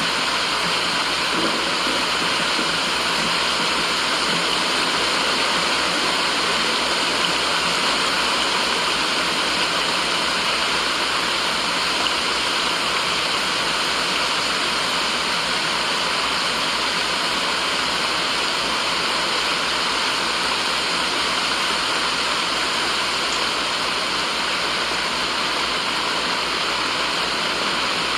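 Steady, even rushing noise with no change in level or pitch, strongest in the upper-middle range: a continuous white-noise sleep track.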